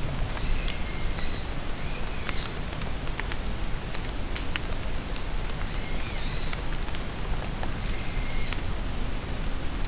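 Steady rain falling in a forest, with scattered drips and taps, and short high songbird calls: a group of phrases in the first couple of seconds and another from about six to eight and a half seconds in.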